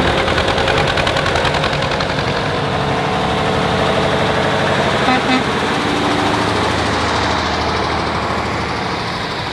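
Several diesel tractor engines running as they drive past in a procession, with a brief horn toot about five seconds in.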